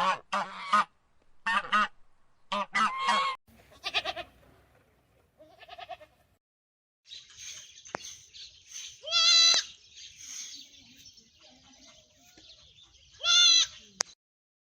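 Farm animal calls: a quick run of short, pitched calls in the first few seconds, then, over a steady hiss, two loud longer calls about four seconds apart.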